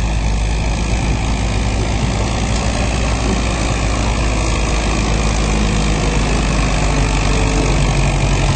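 Farm tractor engine running steadily and loud, its pitch rising slightly about two-thirds of the way through.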